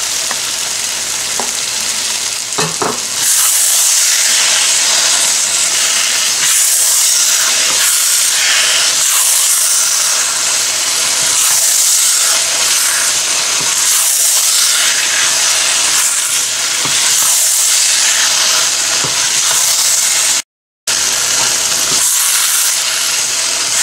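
Meat, bitter gourd and onions sizzling in a hot nonstick pan as a wooden spoon stirs them, the hiss swelling and fading with each stroke. The sizzle grows louder about three seconds in and cuts out for a moment near the end.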